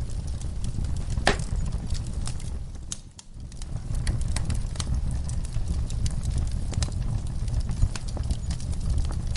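Fireplace crackling with scattered sharp pops over a steady low rumble, mixed with the sounds of horses in a stall; the level dips briefly a little after three seconds in.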